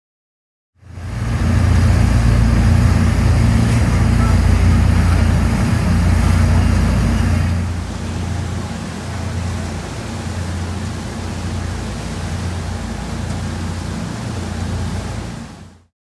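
Cruise boat under way: a steady low engine rumble with a rushing noise over it. It comes in abruptly about a second in, drops somewhat in level about halfway through, and cuts off just before the end.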